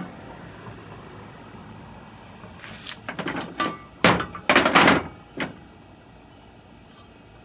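A cluster of clunks and knocks from hose reel parts being handled and fitted back together, bunched between about two and a half and five and a half seconds in.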